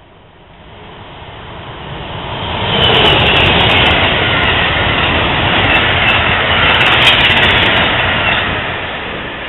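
Passenger train passing close by at speed, a rushing of wheels on rail. It swells over the first three seconds, stays loud for about five, then fades as it goes by.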